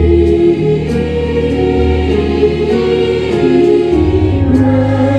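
Gospel choir singing held chords with accompaniment underneath, its low bass notes changing every second or two.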